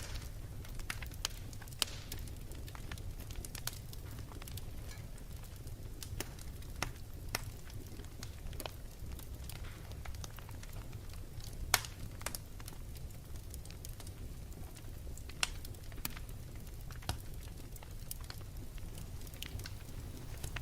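Wood fire crackling, with irregular sharp pops over a low steady rumble; one pop about midway is louder than the rest.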